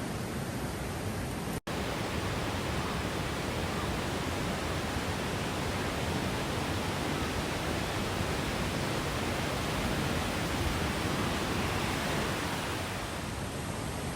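Mountain stream flowing: a steady, even rush of water. The sound drops out for an instant about one and a half seconds in.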